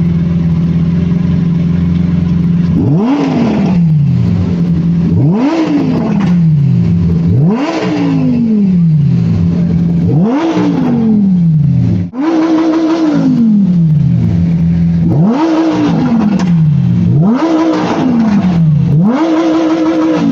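A car engine running steadily, then revved hard eight times in a row, roughly every two seconds. Each rev rises sharply and falls back. Twice, about halfway through and again near the end, the engine is held at the top of the rev for over a second. A steady engine drone continues underneath.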